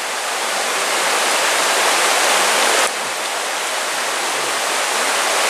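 Mountain stream rushing over rocks: a loud, steady roar of water, which drops slightly and abruptly about three seconds in.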